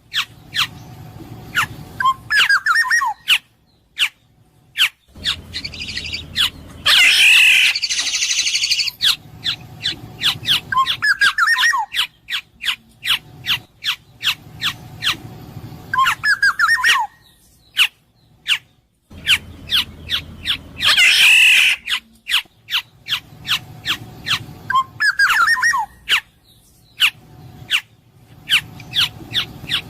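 Black-naped oriole (kepodang emas) calling: short fluty whistled phrases alternate with a loud harsh nasal squawk, over rapid sharp clicks. The same sequence repeats about every 14 seconds.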